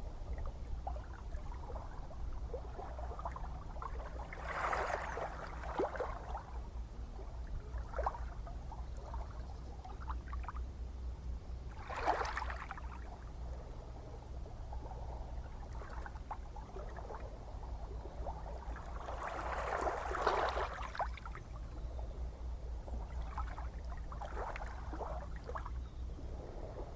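Gentle ocean waves washing in over a steady low rumble of surf, with a splashing surge every several seconds, the strongest about twenty seconds in.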